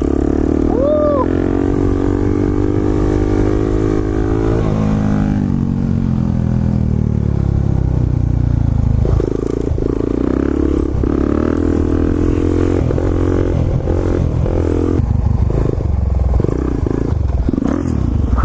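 Motorcycle engine running, its pitch rising and falling with the throttle, with a clear shift in pitch about four to five seconds in.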